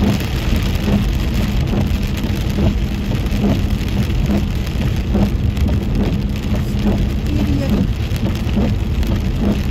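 Rain on a moving car and tyres hissing on a wet highway, heard from inside the car. Under the steady noise runs a soft, regular beat a little under a second apart.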